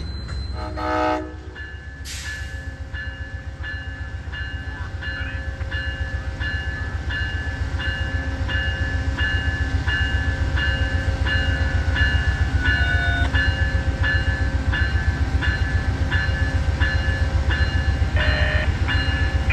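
Train approaching, its low rumble growing steadily louder, with a short horn blast about a second in. Over it a ringing repeats a bit under twice a second.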